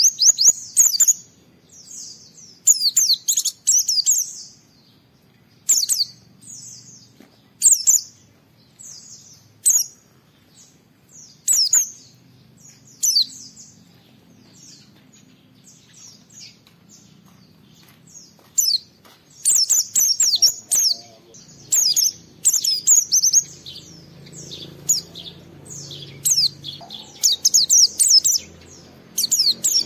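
White-eye (pleci) singing in full, energetic song: quick bursts of high twittering chirps with short pauses between them. The bursts come thicker and almost without a break from about two-thirds of the way in.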